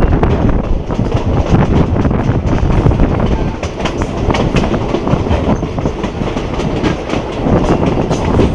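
Passenger train running along the line, heard from inside a carriage at the window: wheels clattering over the rails with a steady rushing noise.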